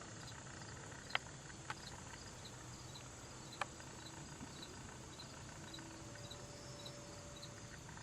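Faint cricket chirping, a high chirp about twice a second over a low background hiss, with three light clicks in the first few seconds.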